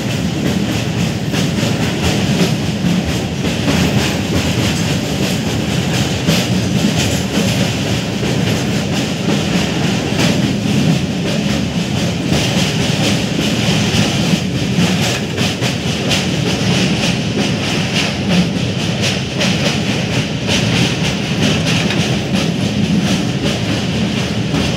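Passenger train running, heard from aboard a coach: a steady rumble of the wheels with clickety-clack over the rail joints.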